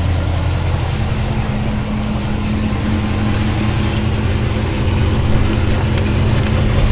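2023 C8 Corvette's LT2 V8 running steadily through long-tube stainless headers, stock catalytic converters and a stainless cat-back exhaust: a deep, even drone. A higher steady hum joins about a second in.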